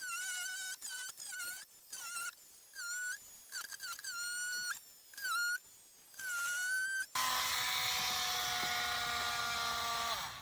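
A dog whining in repeated high, wavering calls. About seven seconds in, an electric power saw starts up and runs steadily, cutting through a panel.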